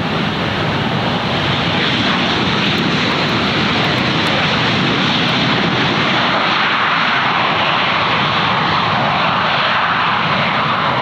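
Airliner's engines running loud and steady, an even rushing noise with no breaks.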